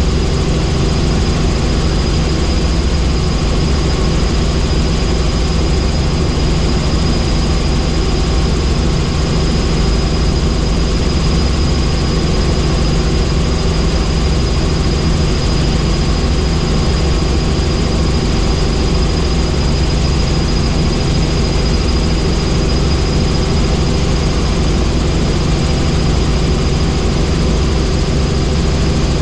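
Helicopter in steady flight: constant, loud rotor and engine noise with a thin, steady high-pitched whine running over it.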